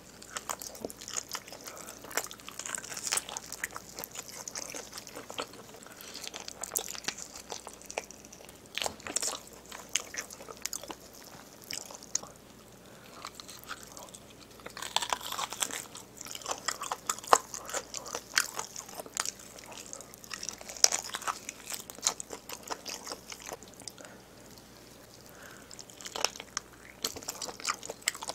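Close-miked eating of sauce-coated braised pig's trotters (jokbal): bites and chewing with many short, wet smacks and clicks, busiest around the middle.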